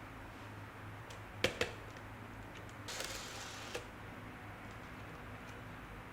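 Hands handling the model train and its packaging: two quick light clicks about a second and a half in, a brief rustle around three seconds, then another small click, over a low steady hum.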